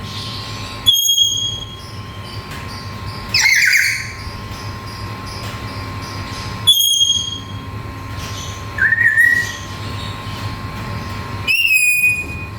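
Black-capped lory giving short, loud, high whistled calls, five in all, spaced a few seconds apart, the fourth fainter than the rest. A steady low hum runs underneath.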